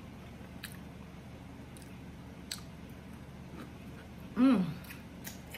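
A person chewing a slice of cucumber close to the microphone, a few sharp mouth clicks spaced through it, and a short hummed 'mm' about four and a half seconds in.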